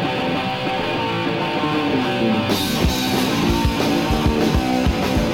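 Punk rock band playing live: electric guitar alone at first, then the drum kit and bass come in about two and a half seconds in, with steady kick-drum beats and cymbals.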